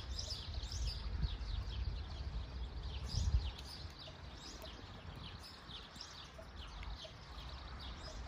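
Small birds chirping rapidly and continuously, many short high chirps. Underneath runs a low rumble with two soft low thumps, about a second in and about three seconds in.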